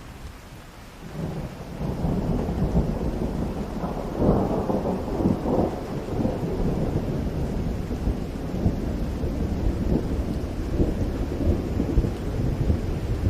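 Steady rain falling, with a long roll of thunder that swells in about a second in, peaks a few seconds later and keeps rumbling.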